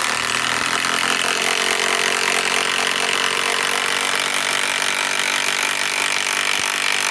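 DeWalt DCF891 mid-torque cordless impact wrench running steadily at full speed, driving a fastener in.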